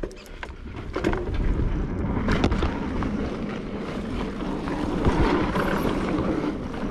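Wind buffeting the microphone of a mountain biker's camera while riding fast over the rumble of bike tyres on a dirt trail, with scattered sharp clicks and rattles from the bike.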